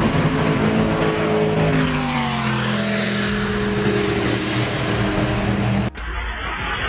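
A motor vehicle's engine running over road noise, its pitch falling as it slows about two seconds in. Near the end it cuts off suddenly to a different low rumble.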